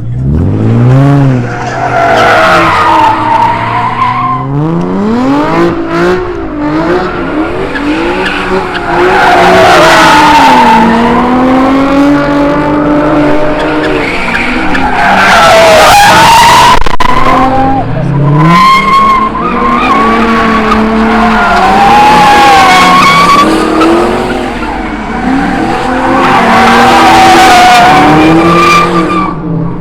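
Car engines revving hard, their pitch climbing and falling over and over, with tyres squealing and skidding as cars spin donuts and do burnouts.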